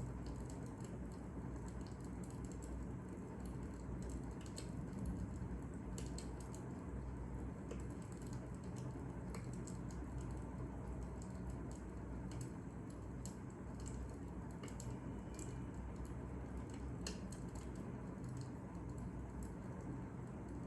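Fire crackling: irregular small pops and snaps over a steady low rumble of burning.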